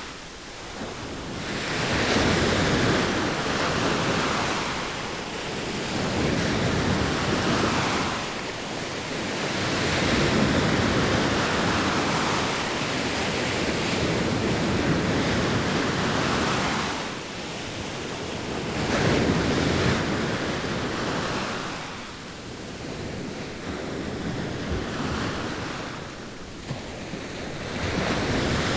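Sea waves washing onto the shore, the surf rising and falling in slow swells every few seconds.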